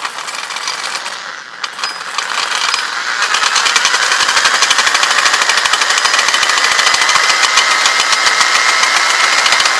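Drill-driven wire wheel spinning against a radiator valve part, scrubbing the metal clean. The motor's whine climbs slowly in pitch as the wheel speeds up. The scratching of the wire bristles builds over the first few seconds, then holds steady and loud.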